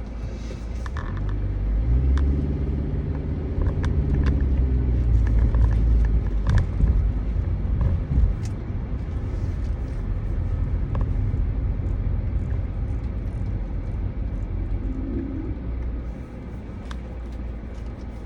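A vehicle's engine and road rumble while driving. The engine note climbs and then eases off over the first few seconds, with scattered sharp clicks along the way.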